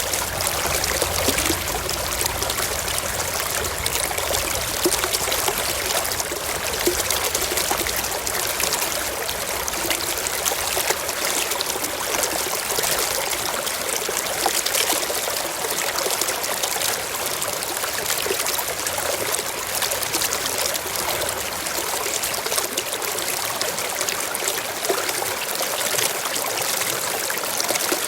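Shallow stream running over rocks, a steady trickling and splashing flow.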